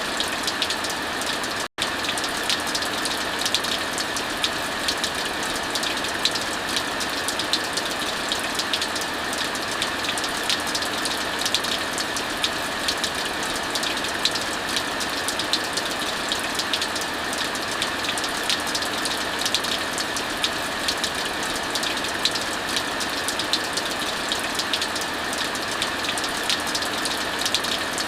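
Heavy rain falling steadily, mixed with the frequent small snaps and pops of a crackling wood fire. The sound cuts out for an instant about two seconds in.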